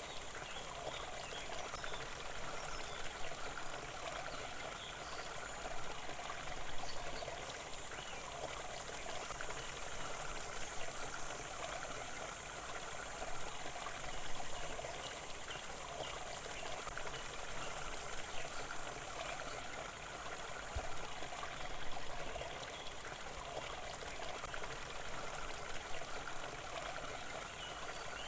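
Running stream water trickling and splashing steadily, as a continuous relaxing water ambience.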